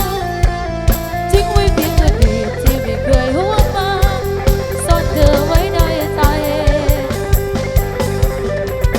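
A live band playing an instrumental passage: a steady drum kit beat under a wavering melodic lead line.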